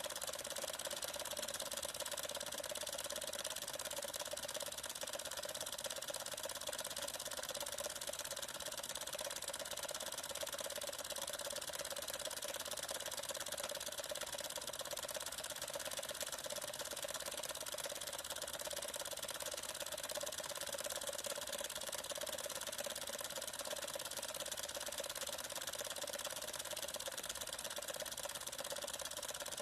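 Small homemade Stirling engine with glass-syringe pistons and a wooden flywheel running steadily at about 500 rpm: a continuous fast mechanical ticking over a steady mid-pitched tone.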